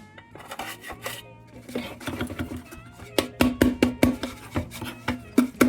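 A rusty steel lantern is shaken and bashed about to dislodge bug debris from its air tube. First it scrapes and rattles, then from about three seconds in it is knocked rapidly and repeatedly, about four or five knocks a second, the metal ringing with each blow.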